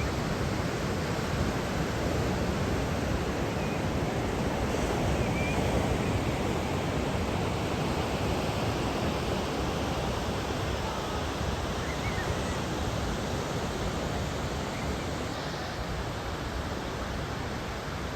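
Ocean surf breaking on a beach, an even, continuous wash of waves from a typhoon swell, dipping a little near the end.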